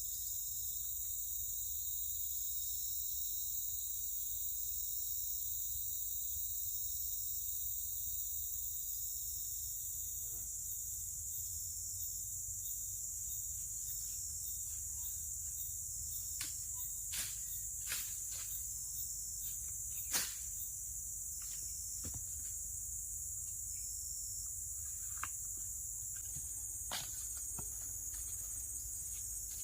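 Forest insects chirring in a steady, high-pitched chorus, with a few scattered light clicks and knocks, the loudest about twenty seconds in.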